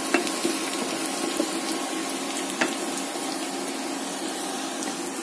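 Sliced onions sizzling steadily as they fry in mustard oil in a kadai, nearly golden. A wooden spatula stirring them gives a few sharp clicks against the pan.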